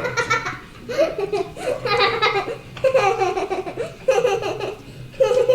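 A young child laughing in repeated high-pitched bursts, about one every second, the pitch swooping up and down.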